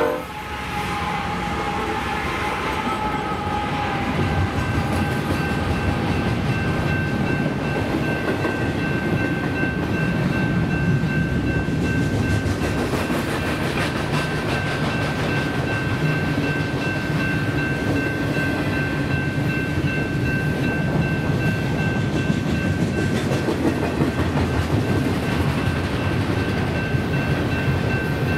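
Double-stack intermodal freight train passing close by. The train horn cuts off at the very start, just as the lead GE locomotives go by. The container well cars' wheels then rumble and clack steadily over the rails, with a thin steady high ringing tone above them from a few seconds in.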